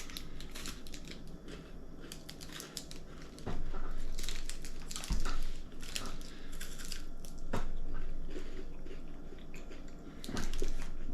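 Crunching and chewing of a chocolate wafer bar, in short irregular crackles, with the wrapper crinkling now and then.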